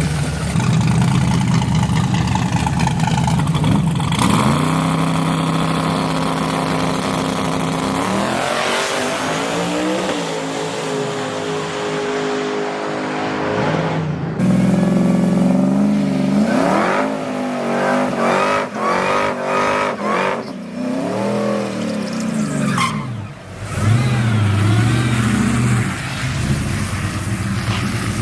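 Drag-truck V8 engines running hard at the strip: a steady drone that drops in pitch, then, after a cut, a run of revs rising and falling several times in quick succession.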